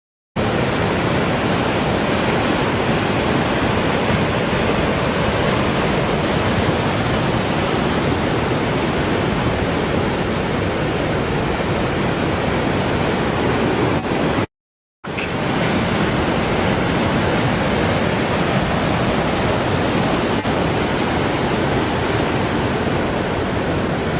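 Steady, loud rush of wind and breaking sea. It cuts out for about half a second a little past the middle, then carries on the same.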